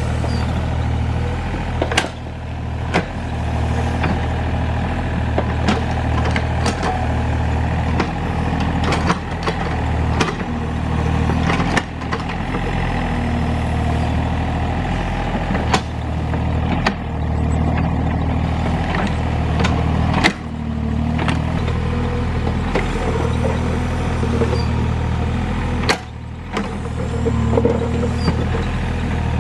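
Hydraulic excavator's diesel engine running steadily, with sharp knocks and clanks scattered through it every few seconds.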